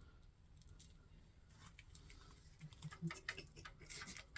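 Faint, nearly quiet at first, then from about two-thirds of the way in a quick run of small clicks and taps with a few soft knocks, as parts are handled on a small-block Chevy engine under teardown.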